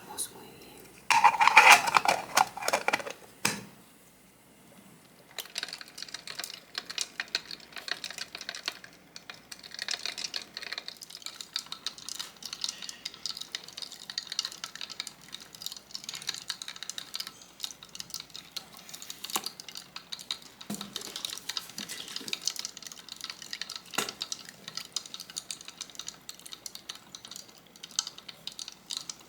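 A spoon and small dishes clinking loudly for a couple of seconds, then steady fine scraping and tapping, like ingredients being stirred and scooped in a small container.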